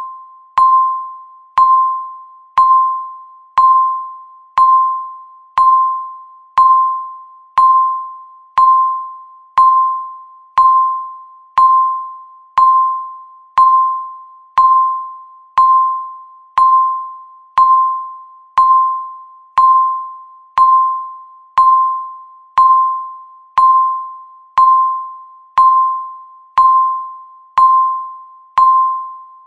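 Countdown timer tick sound effect: a short pitched ping, struck sharply and fading out, once every second with steady regularity.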